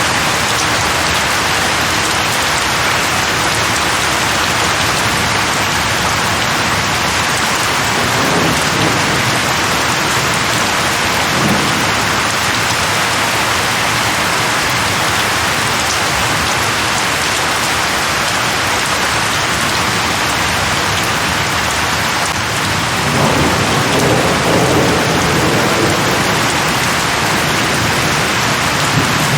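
Steady heavy rain, with low rolls of thunder about a third of the way in and again, longer, about three-quarters through.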